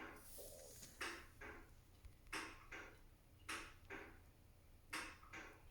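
Faint paired clicks, the two in each pair about a third of a second apart, repeating about four times at an even pace of roughly once every second and a quarter, like a tick-tock.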